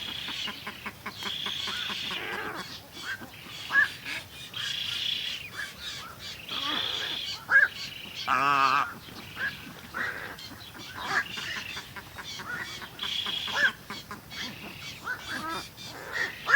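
Birds calling and singing: many short chirps and sweeping whistles overlapping throughout. A louder, wavering call stands out about eight and a half seconds in.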